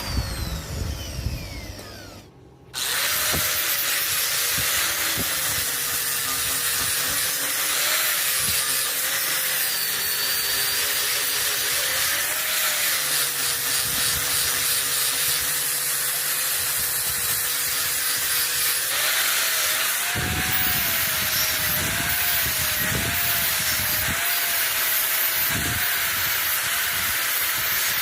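A power tool winds down with a falling whine and stops. About three seconds in, a power tool starts and runs steadily on metalwork, its motor whine wavering as load comes and goes, over a hiss of grinding. Low knocks join in near the end.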